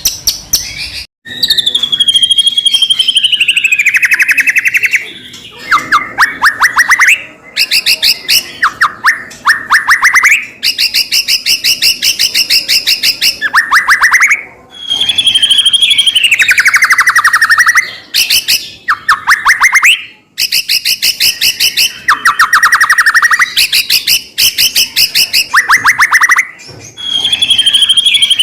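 White-rumped shama singing loudly and continuously: fast rattling runs of repeated notes alternating with sweeping whistled phrases that fall in pitch, with the falling phrase coming back several times.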